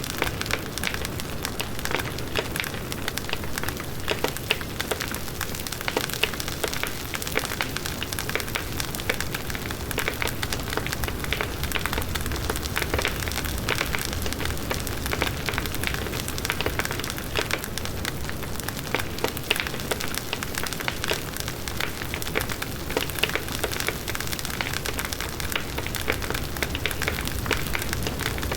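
Large bonfire of burning wood: dense, continuous crackling with many sharp pops, over a steady low rush of the flames.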